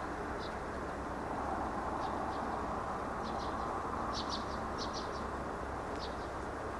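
Small birds chirping in short, high, scattered notes over a steady low background noise.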